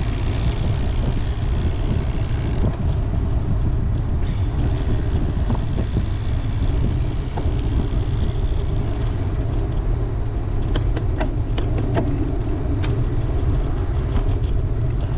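Wind buffeting the microphone of a camera on a moving road bike, a steady low rumble with tyre and road noise under it. A quick series of sharp clicks comes about two-thirds of the way through.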